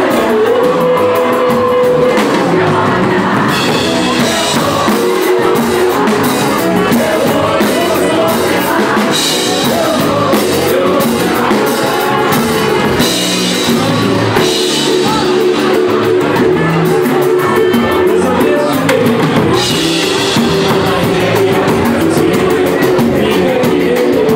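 Live samba band playing, with singing voices over drums and percussion.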